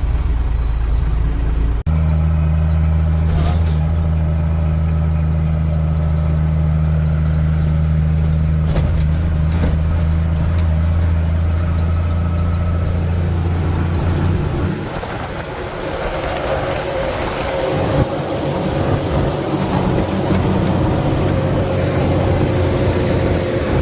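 Truck engine running with a steady low hum; about two-thirds of the way through, the low hum weakens and a rougher, higher-pitched running sound takes over.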